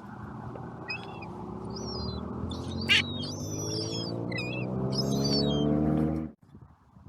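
A vehicle engine running and slowly rising in pitch as it grows louder, with birds calling over it. The engine sound cuts off suddenly near the end.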